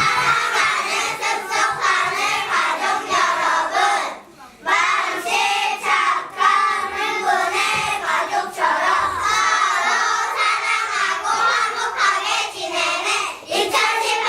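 A group of young kindergarten children singing together in unison, with a short break about four seconds in before they carry on.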